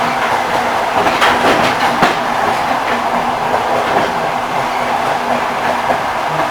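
Railway carriage wheels rolling along the track: a steady rumble with the clickety-clack knock of wheels crossing rail joints, a cluster of knocks about a second in and another near two seconds.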